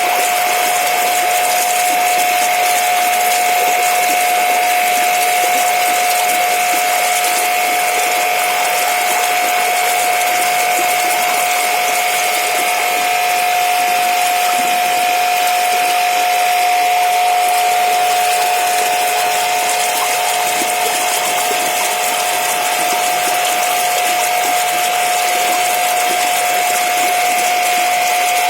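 A machine running steadily, with a constant high whine over a hiss.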